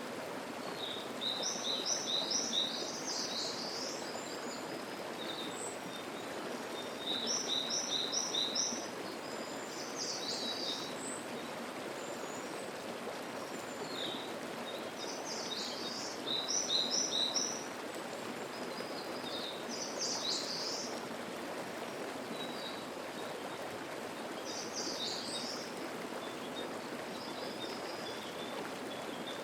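Mountain stream babbling steadily, with songbirds singing over it. One bird repeats a short phrase of four or five quick notes three times, and other birds call now and then.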